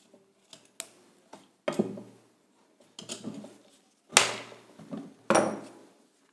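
Metal clinks and knocks of hand tools working the nuts and bolts of an old washing-machine motor as it is unscrewed: a few light ticks, then louder clanks with short rattles, the loudest about four seconds in.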